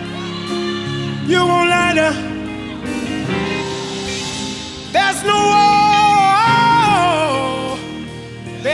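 Live gospel worship music: a singer's drawn-out phrases over the band's sustained accompaniment, with a short phrase about a second in and a longer held phrase from about five seconds in that falls away in pitch at its end.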